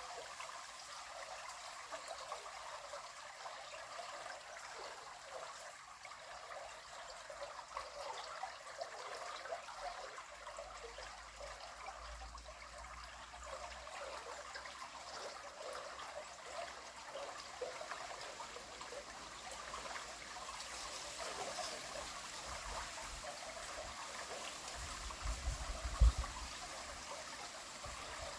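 River water flowing and trickling steadily. Low rumbles come and go, and a single short low thump near the end is the loudest sound.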